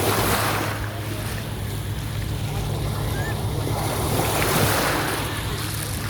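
Black Sea waves breaking on the shore, two surges about four seconds apart, over a steady low hum.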